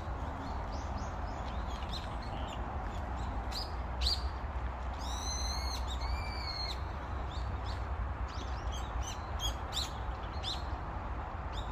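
Park birds chirping with many short, high calls, with two longer, drawn-out calls midway through, over a steady low rumble.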